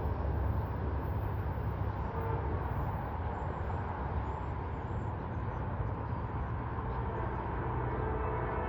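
A train running past, a steady low rumble with no sharp events.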